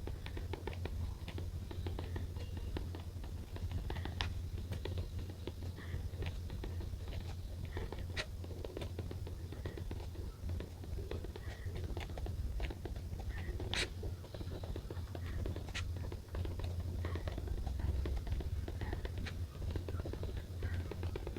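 Scattered light clicks, taps and scratches of pen and paper being handled while writing in a diary, over a steady low hum.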